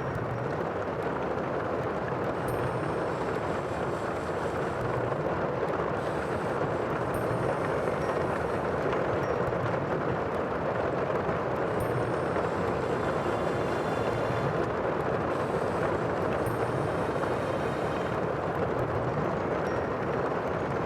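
Sea surf rushing steadily, a continuous wash of water noise with no single wave crash standing out.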